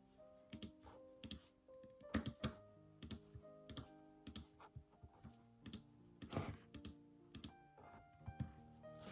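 Typing on a computer keyboard: irregular key clicks, a few a second, over soft background music with held notes.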